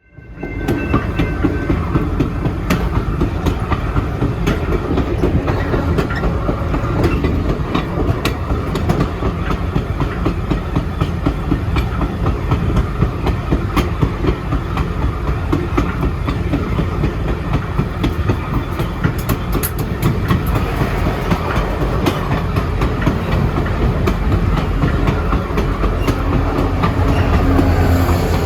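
Alaska Railroad passenger train rolling along, heard from aboard: a steady rumble with wheels clacking over rail joints.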